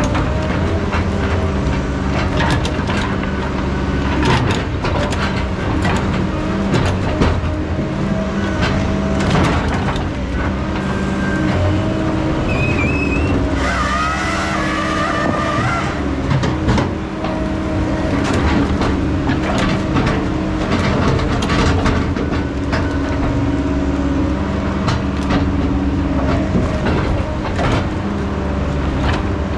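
Heavy logging machine's diesel engine running steadily under load, with frequent metal clanks and knocks. A wavering high squeal sounds for about two seconds near the middle.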